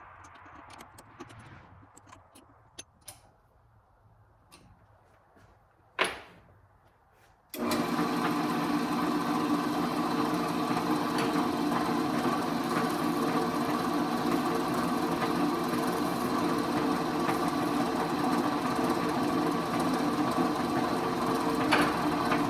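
Small clicks and handling sounds, and one sharp click about six seconds in. About seven and a half seconds in, a Rockwell Delta 11-100 drill press's motor starts abruptly and runs steadily, spinning the spindle and a Forstner bit for a rough runout check after the arbor and chuck were refitted.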